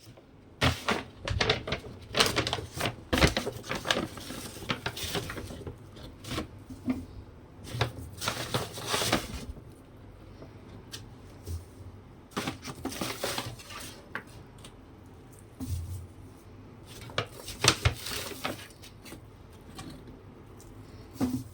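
Dishes, pots and utensils clinking and knocking in irregular clusters every few seconds, as in kitchen work.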